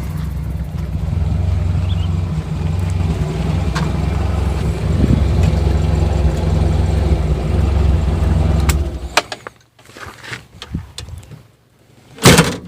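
The K-series four-cylinder engine of a 1976 Toyota Corolla KE30 running steadily, which the owner says is still in good shape. It stops abruptly about nine seconds in. A few light knocks follow, then one loud thump near the end.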